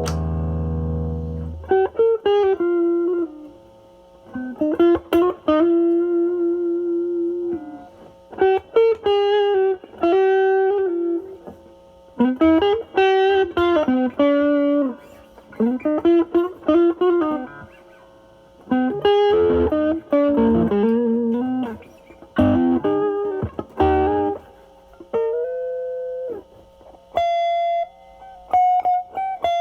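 Semi-hollow electric guitar played through a NOBELS ODR-1 overdrive pedal with bass-cut mod into the drive channel of a Marshall Valvestate amp. A held chord rings out at first. Then come single-note lead phrases with string bends, separated by short pauses.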